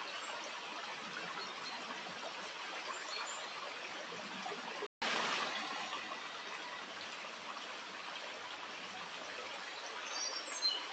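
Small stream running: a steady rush of flowing water, broken by a split-second gap about five seconds in and a little louder just after. Near the end a few short, high chirps sound over it.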